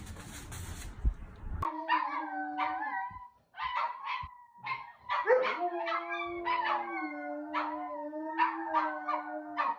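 A dog howling in a series of drawn-out, wavering calls with short breaks between them, starting after a brief stretch of hiss.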